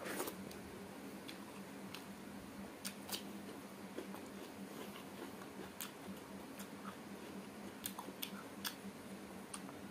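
A person eating with their hand close to the microphone: chewing meat, with scattered sharp wet mouth clicks and smacks, the loudest just at the start. A faint steady hum runs underneath.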